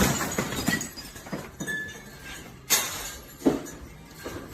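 Objects clinking and knocking as they rattle in earthquake shaking, with two sharp knocks about a second apart in the second half.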